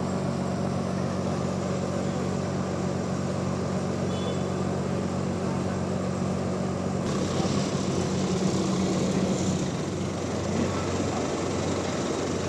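Sawmill machinery engine running steadily, with a hissier, rougher sound joining about seven seconds in.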